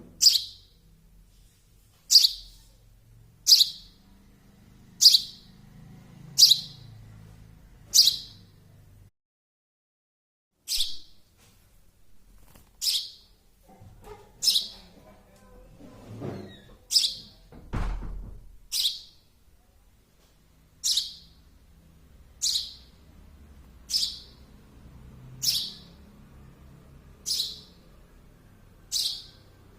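Young sparrow chirping, one sharp high chirp about every second and a half, with a short break around nine seconds in. A dull thump comes about eighteen seconds in.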